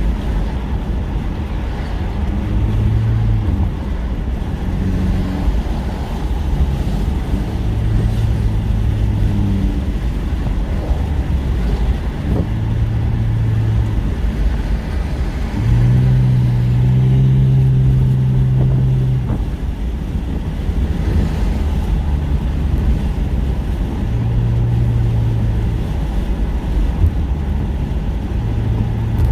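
A car being driven: a steady low road and engine rumble, with an engine drone that swells in and out for a few seconds at a time, the loudest stretch about halfway through.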